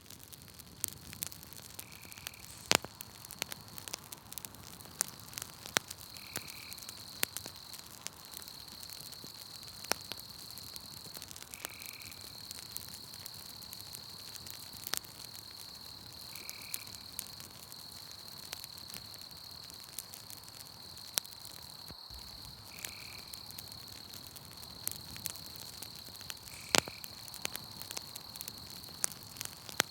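Campfire crackling, with sharp pops at irregular intervals, over a steady high insect trill and a short call that repeats about every four to five seconds.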